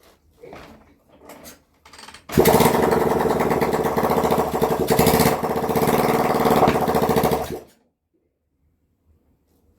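Spare Honda CB125 single-cylinder four-stroke engine bursting into life after a few faint knocks, running fast and unevenly for about five seconds, then cutting out suddenly. Its points are worn and hard to set, with the spark jumping to the backing plate, and the engine will not hold an idle.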